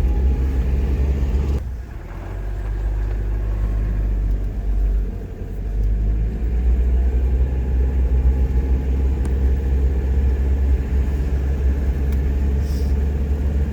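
Steady low rumble of a car driving slowly, engine and road noise heard from inside the cabin, easing off briefly twice.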